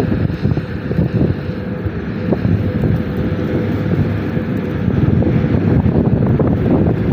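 Freight train passing, a loud, steady rumble of wheels with irregular clatter, with wind buffeting the microphone in a snowstorm.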